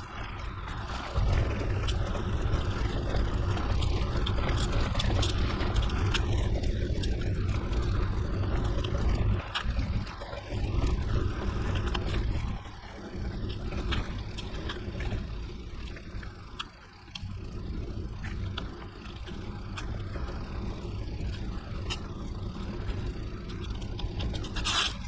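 Mountain bike rolling over a gravel forest road: tyres crunching and scraping on loose stones, over a heavy low rumble, with the loudness dipping and returning a few times.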